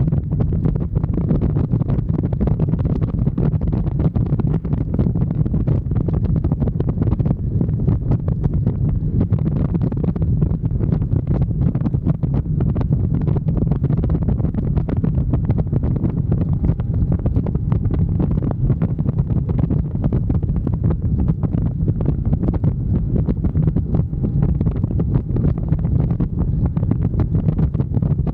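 Steady low rumble of wind buffeting the microphone on a moving motorcycle, with road and engine noise blended in and no clear engine note standing out.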